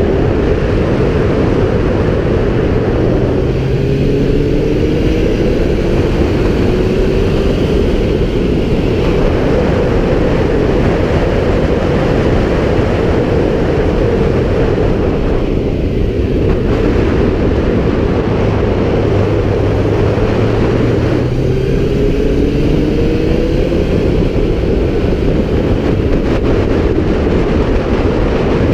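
Kawasaki Z750's inline-four engine running at speed, largely buried under heavy wind noise on the camera microphone. The engine note rises twice as it accelerates, a few seconds in and again about two-thirds of the way through.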